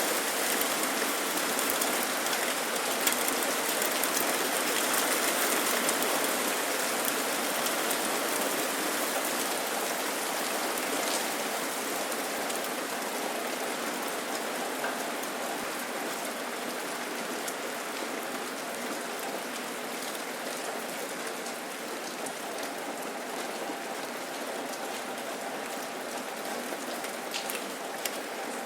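Steady rain falling and pattering on surfaces, an even hiss with scattered sharper drop ticks, easing slightly in loudness over the stretch.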